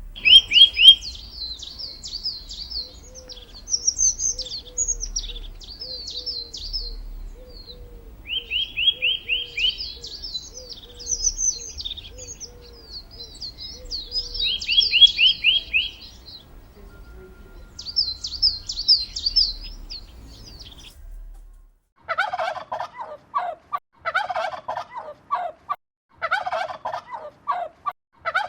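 A songbird singing in phrases of high chirps and fast trills for about twenty seconds. Then turkeys gobble in repeated rattling bursts.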